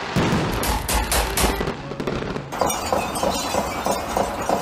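Aerial fireworks going off in a quick series of sharp bangs for about a second and a half. About two and a half seconds in, the sound cuts to music with a light, repeated pattern.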